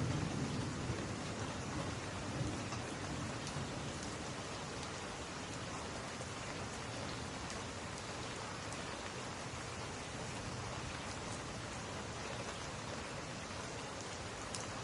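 Steady rain on window glass, with a few faint crackles from a wood fire. A low rumble in the first few seconds fades away.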